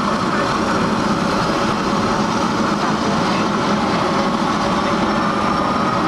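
Emergency helicopter running on the ground with its rotor turning, warming up before take-off: a steady engine and rotor noise, with a whine that slowly rises in pitch over the second half.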